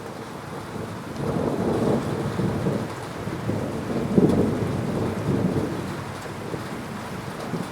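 Thunder rolling over steady rain: a low rumble builds about a second in, peaks with a sharper crack near the middle, then fades away under the rain.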